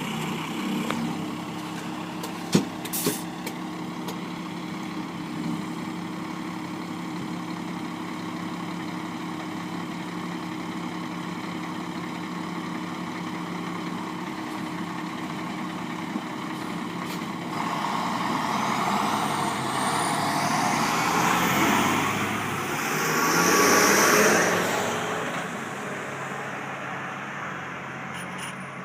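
A heavy truck engine idles steadily, with two sharp clicks about two and a half seconds in. From about 17 seconds a large vehicle, likely a fire engine setting out on a call, draws near and drives past, loudest near 24 seconds, then fades away.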